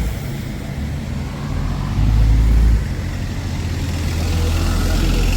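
Road traffic passing on a wet street, under a loud low rumble that swells for just under a second about two seconds in.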